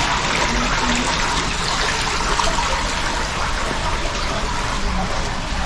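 Water running in a steady stream, an even rushing hiss that holds throughout.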